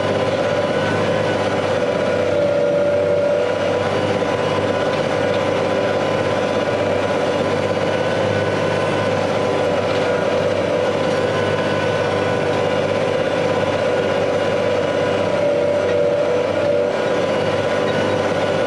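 Large farm harvest machinery running steadily: a constant engine and drivetrain hum with a few steady whining tones.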